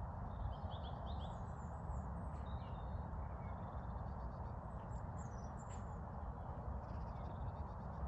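Small songbirds chirping and twittering, with short high calls and quick falling notes spread through, faint over a steady low background rumble that is the loudest sound.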